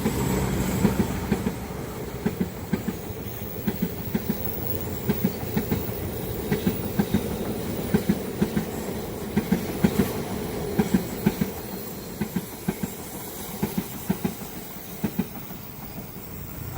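Train passing at speed, its wheels clacking in quick pairs over the rail joints in a steady rhythm over a continuous rumble, easing slightly near the end.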